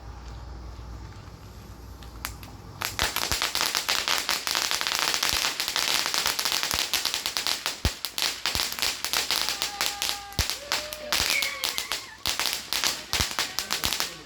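Firework fountain going off with dense, rapid crackling that starts suddenly about three seconds in and keeps on.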